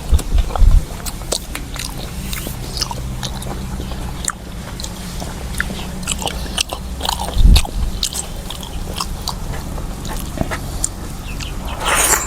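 A person chewing and eating food close to the microphone: many small wet mouth clicks and chewing noises, with a few dull low thumps near the start and about seven seconds in.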